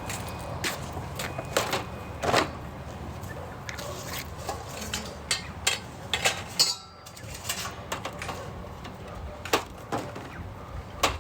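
Irregular sharp clicks and knocks, a dozen or so spread unevenly, over a steady low background rumble.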